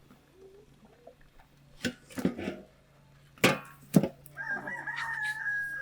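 A rooster crows once near the end: one long, held call of nearly two seconds. Before it come a few sharp knocks, the loudest two about half a second apart.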